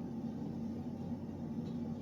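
A steady low mechanical hum with a rushing noise, unbroken and without distinct strikes.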